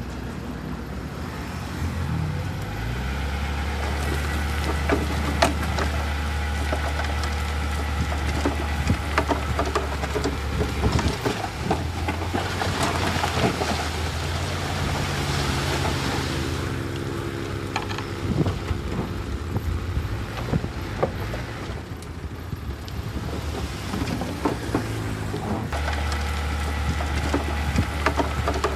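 Heavy diesel earthmoving machinery at work: a steady low engine drone that changes pitch and load a few times, with scattered clanks and knocks. A rushing, hissing noise rises for a few seconds in the middle.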